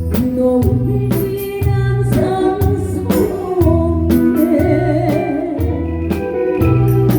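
Live band playing a trot song with a singer: a steady drum-kit beat, bass, keyboards and guitar under a sung melody with vibrato.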